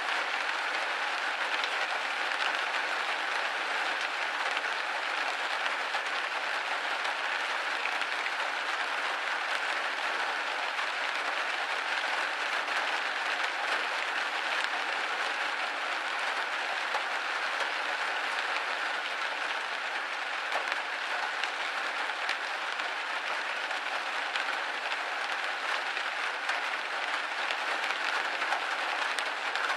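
Steady rain on a window pane: a dense, even patter of many small drop ticks with no low rumble, unchanging throughout.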